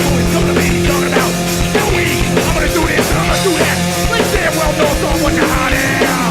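A hardcore punk band playing live at full volume: distorted electric guitars and bass holding chords over a pounding drum kit, with no sung lyrics.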